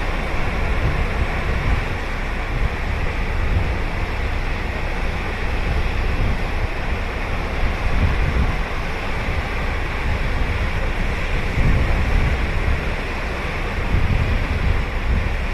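Ocean surf washing in steadily on a beach, swelling and easing gently, with a low rumble of wind buffeting the microphone.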